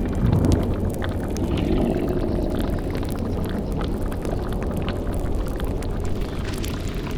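Spooky ambience soundscape: a cauldron bubbling and a fire crackling over a steady low rumble, with a low sound sliding down in pitch just after the start.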